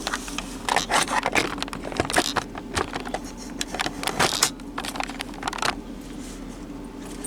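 Packaged food and containers being handled and moved about in a small fridge: a quick run of clicks, rattles and rustles for about five seconds, over a steady low hum.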